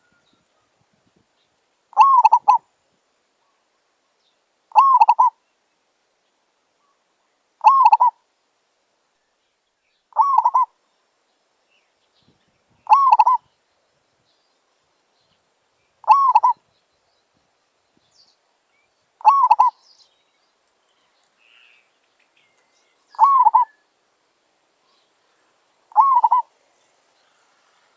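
Zebra dove cooing: a short call of a few quick coos, repeated nine times at about three-second intervals.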